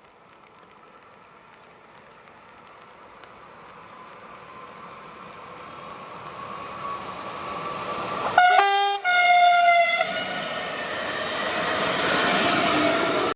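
Newag Impuls electric multiple unit EN79-002 approaching, its running noise steadily growing louder, then sounding its horn in two blasts of different pitch about eight seconds in as the Rp1 "attention" warning signal. The train then passes close by, its noise loud until it cuts off suddenly at the end.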